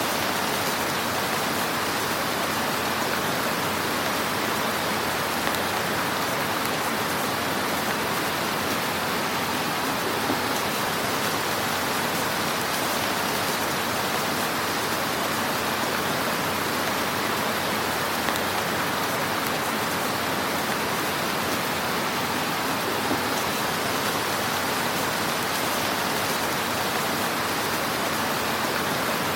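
Fire in a fireplace making a steady hiss, with a few faint pops scattered through it.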